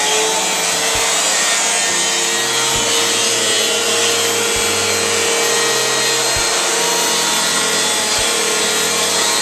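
Eureka Whirlwind 3272AV bagless upright vacuum cleaner, with its 12-amp motor, running steadily with a loud suction rush and a steady whine while it picks up pet hair and crumbs from a tile floor.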